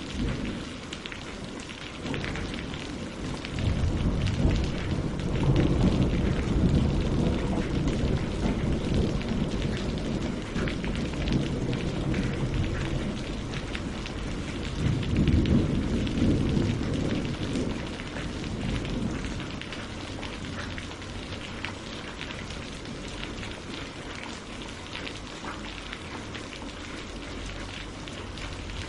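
Steady rain pattering on leaves and lake water, with low rolls of thunder swelling up about four seconds in and again about fifteen seconds in.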